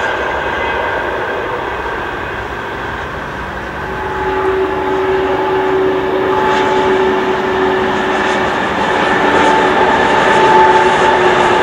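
Frecciarossa ETR500 high-speed electric train passing close at speed: a steady rush of wheels and air, with a steady high whine coming in about four seconds in and the sound growing louder toward the end.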